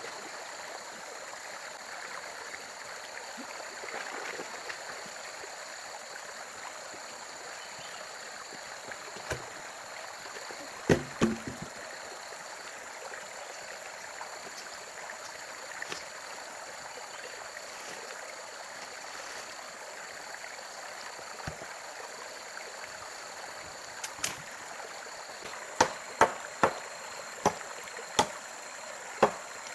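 Steady rush of a flowing stream. A few sharp knocks come about eleven seconds in. Near the end a run of regular chopping or hammering strikes begins, roughly one every 0.7 seconds.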